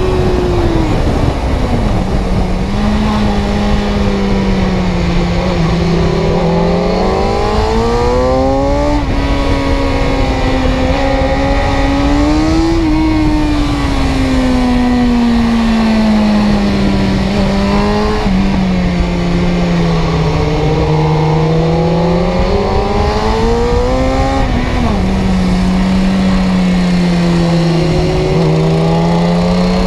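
Car engine running under way, its revs rising and falling in slow swells over several seconds, with a few sudden drops in pitch.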